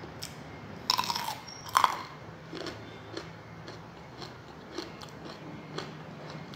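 Crunchy mouthfuls of raw, unpeeled cucumber being chewed: two loud crunches about a second apart, then steady chewing with softer, regular crunches.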